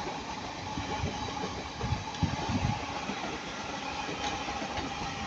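Passenger train running past on the line: a steady rumble with a faint held hum over it.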